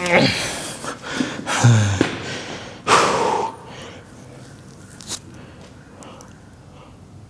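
A man grunting and blowing out hard, forceful breaths under the strain of pressing heavy dumbbells overhead. The loudest exhale comes about three seconds in, and after that the sound drops to quiet room tone.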